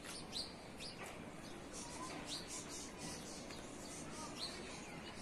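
Birds chirping: a few short, high chirps spaced a second or two apart, over steady background noise.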